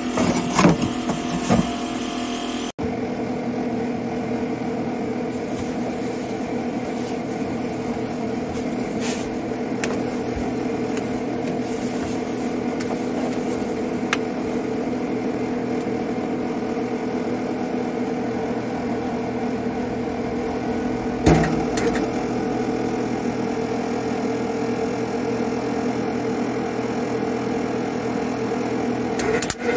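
A steady machine hum at a fixed pitch, with a short louder noise about twenty seconds in.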